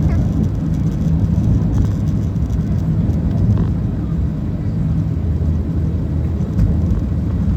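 Jet airliner's engines and rushing air heard from inside the passenger cabin during takeoff: a loud, steady low rumble.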